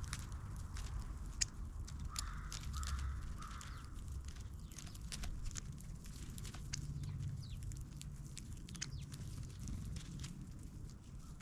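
A crow cawing three times in quick succession, harsh calls about two to three and a half seconds in, over a steady low rumble with scattered small clicks.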